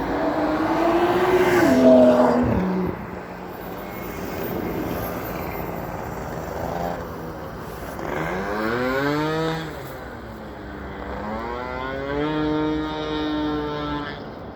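A motor vehicle engine rising in pitch and then dropping sharply, several times over, with a steadier stretch near the end.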